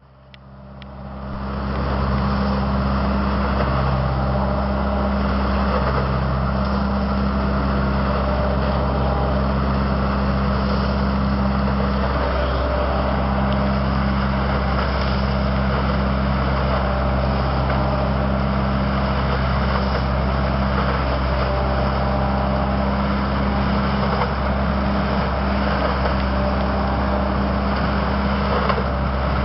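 Truck-mounted leaf collector's engine and vacuum unit running steadily with a deep drone, fading in over the first two seconds.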